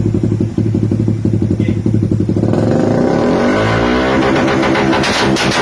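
Suzuki Raider 150 single-cylinder engine with an aftermarket exhaust pipe idling with an even pulsing beat, then revved up from about halfway in, its pitch climbing. Near the end it breaks into a rapid, loud crackle.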